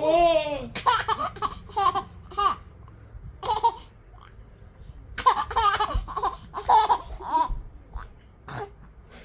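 A small child laughing in repeated bursts of giggles, with a quieter pause around the middle.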